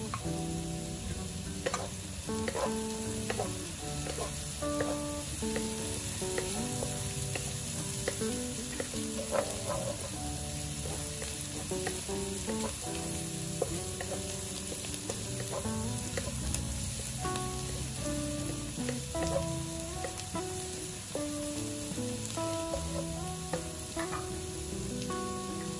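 Chopped aromatics and chili sizzling in hot oil in a wok, with a steady hiss and scattered crackles, and a wooden spatula scraping as it stirs. Soft background music with plucked notes plays over it.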